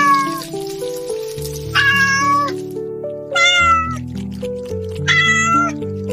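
Cat meowing four times, short calls about a second and a half apart, each dropping slightly in pitch at its end, over light background music.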